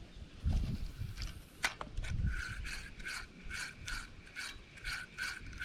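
A fishing reel being cranked in a steady retrieve. From about two seconds in its gears give an even, pitched ticking whir, about two and a half pulses a second. It follows a few dull low knocks in the first second.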